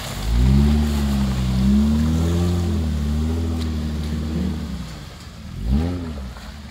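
A 4x4 off-road vehicle's engine revving hard and holding high, wavering revs for about four seconds, then easing off, with one short sharp rev blip near the end. A steady hiss of water lies underneath.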